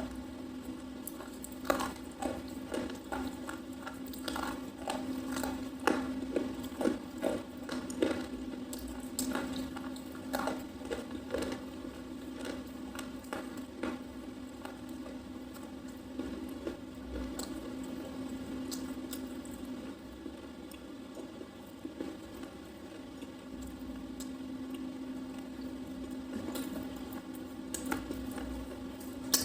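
A person chewing and crunching a soft red slate pencil bar: many sharp, crisp crackles and bites, thickest in the first half, with a steady low hum behind.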